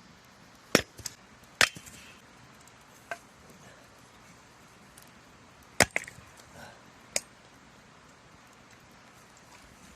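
Firewood being chopped: a handful of sharp, irregularly spaced strikes of a blade into wood, four of them loud.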